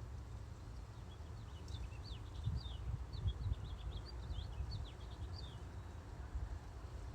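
A small songbird singing a quick run of high, downward-sweeping chirps lasting a few seconds, over a steady low rumble.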